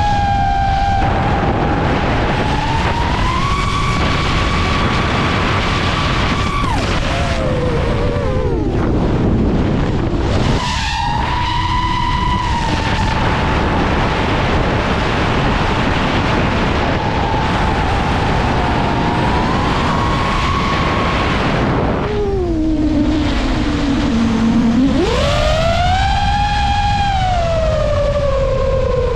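Brushless motors of an iFlight Nazgul Evoque FPV quadcopter whining in flight, their pitch rising and falling with the throttle: the whine sinks away twice, about a quarter of the way in and again past two thirds, and climbs sharply back each time. A steady rushing noise runs underneath.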